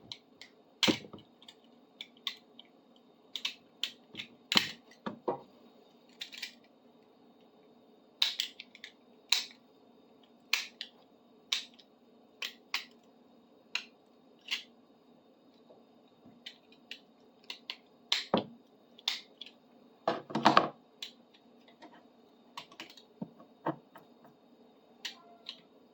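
Irregular sharp clicks and scrapes of hardened glue being chipped and scraped off a metal bar clamp, roughly one every second, some in quick clusters.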